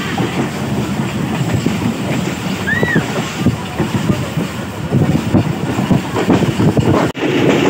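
Passenger train running at speed, heard from a carriage window: a steady rumble and rattle of the wheels over the track, with irregular clacks from the rail joints. A short high rising-and-falling tone sounds about three seconds in.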